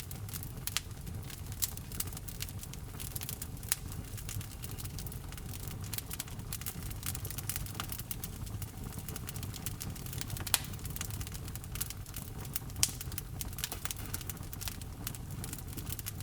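Wood fire in a fireplace crackling, with irregular sharp pops over a low, steady rumble of burning; one louder pop about ten seconds in.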